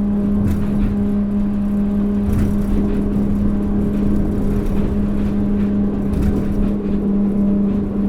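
Interior running sound of a Kobe New Transit 3000 series rubber-tyred automated guideway train at steady speed: a constant motor hum over a low rumble from the tyres on the guideway.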